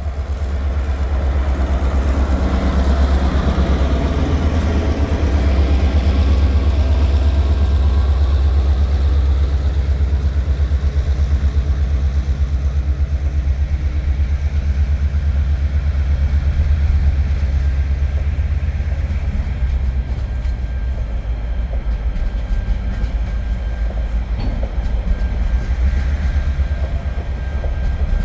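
Two TasRail diesel-electric locomotives, 2051 and 2054, passing while climbing a grade: a deep, steady engine drone, loudest for the first twenty seconds and then easing off as the wagons roll by.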